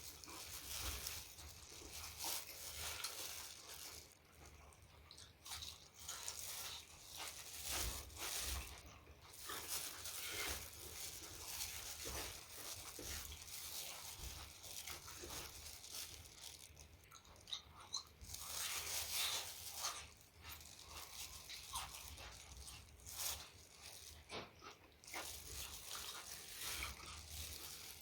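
Close-miked mouth sounds of a person eating: wet chewing with crunching and biting, irregular and continuous.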